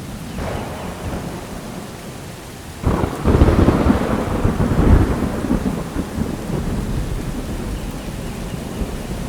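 Steady rain with thunder: a faint rumble about half a second in, then a loud thunderclap about three seconds in that rolls on and slowly fades under the rain.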